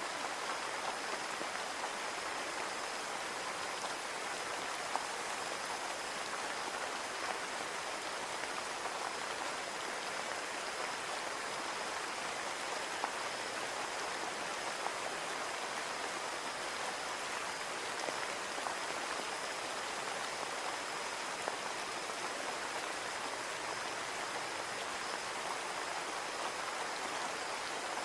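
Steady rain falling on a window pane: an even patter with occasional single drops ticking sharply.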